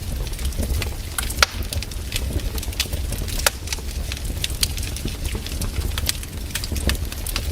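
Wood campfire burning, with frequent sharp crackles and pops of varying strength, two louder pops about one and a half and three and a half seconds in, over a low steady rumble.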